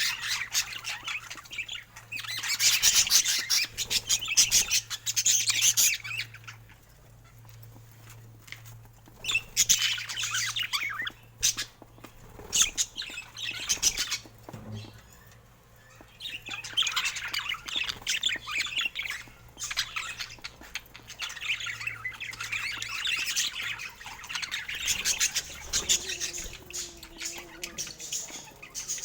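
Budgerigars chattering and squawking in quick warbling bursts, with a couple of brief lulls between the bursts.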